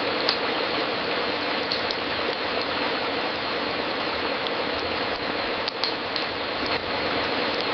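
Fireplace crackling: a steady hiss with scattered sharp pops, a few of them close together about two-thirds of the way in.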